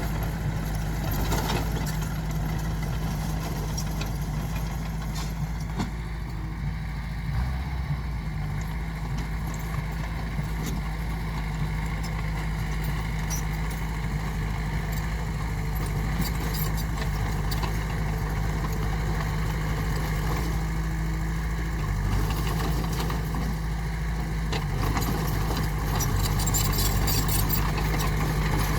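A heavy earthmoving machine's diesel engine running steadily, with scattered light metallic clinks and rattles. It gets a little louder over the last few seconds.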